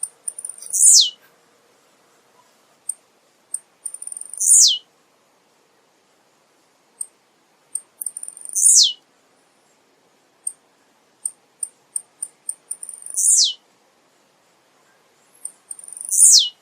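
Male blue-black grassquit (tiziu) singing: five short songs about every four seconds. Each song is a few high, sharp ticks leading into a quick falling sweep.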